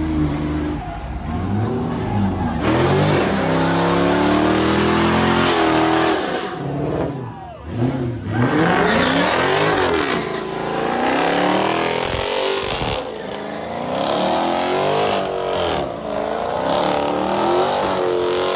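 A car engine revving hard, its pitch sweeping up and down again and again, with spinning tires hissing and squealing from about three seconds in. The noise drops out sharply twice as the throttle comes off, then picks up again.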